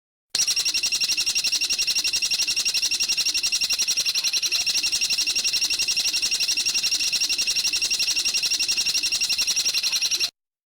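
A bird's rapid, even trill or chatter, about ten notes a second and high-pitched, held steadily for about ten seconds. It starts and cuts off abruptly, as in an edited training recording.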